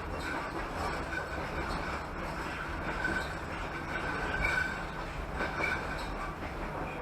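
Passenger train carriage rolling along the track: a steady rumble of wheels on rails, with short, faint high squeals from the wheels every second or so.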